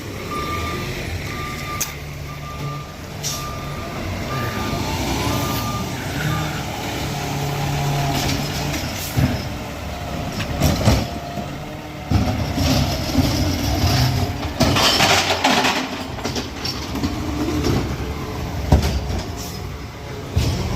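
Peterbilt 520 McNeilus ZR garbage truck running, its backup beeper sounding about nine times in the first six seconds. Sharp clanks follow later, and about two-thirds of the way through there is a burst of air hiss.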